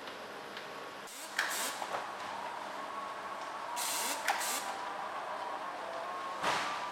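Factory machinery running steadily with a faint whine, interrupted three times by short bursts of hissing air.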